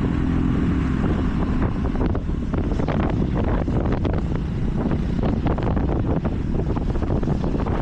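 Wind buffeting the microphone on a moving motorbike, with the engine running underneath.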